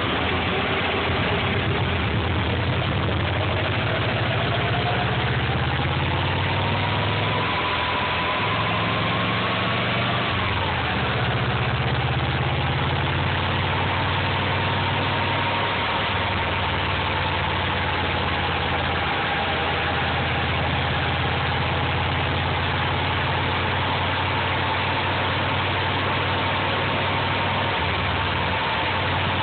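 Subaru EJ22 flat-four engine running steadily, with a thin whine over it that climbs for several seconds, drops suddenly about ten seconds in, then holds level.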